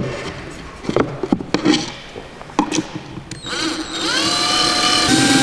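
Power drill working on wooden boards: a few sharp knocks, then about three and a half seconds in the motor spins up, rising in pitch, and runs steadily.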